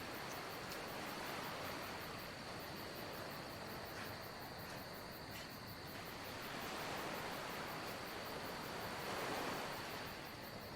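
Soft, steady wash of sea waves with gentle swells about seven and nine seconds in, under a faint, steady high insect trill.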